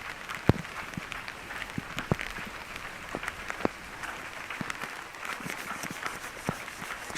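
Rain falling in a steady hiss, with scattered sharp taps from heavier drops or steps on wet ground.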